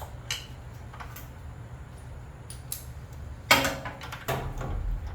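Hand tools and metal parts clinking and knocking during hands-on work: a few scattered light clicks, then a louder clatter with a short ring about three and a half seconds in and another knock soon after.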